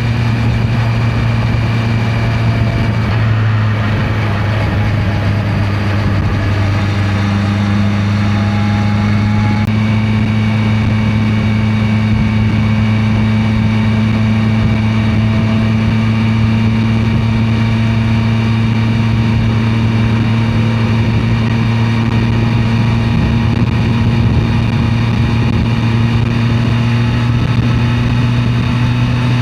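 Honda CB650R's inline-four engine running steadily under way, over a steady rush of wind and road noise; the engine note rises slightly about seven seconds in.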